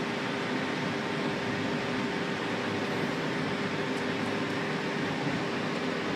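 Golden Pass Panoramic train on the MOB line running, heard from inside its front panoramic car: an even running noise with a steady hum underneath.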